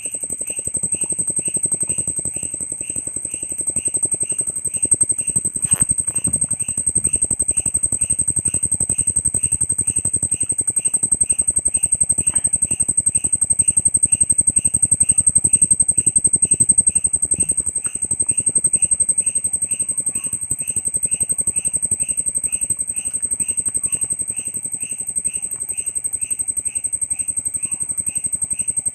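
A grasshopper stridulating: a continuous high-pitched whine, with a lower pulsing chirp repeating about twice a second over a low buzz.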